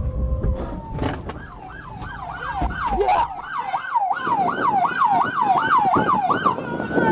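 Police car siren in its fast yelp pattern, sweeping up and down about three times a second, starting about a second in. Low vehicle rumble runs underneath at the start.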